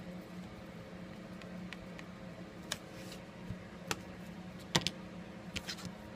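Scattered light clicks and taps of tweezers against the phone's frame while small adhesive tape strips are placed. The loudest is a quick double click about three-quarters of the way through, with a few more near the end, all over a steady low hum.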